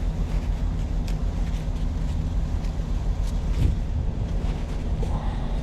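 Truck engine idling steadily, with a few small clicks and taps of hands working on the air line.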